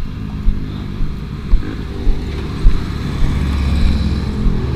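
Small motorcycle engine running at low speed as the bike rolls along, with dull thumps about twice a second; the low rumble grows louder about three seconds in.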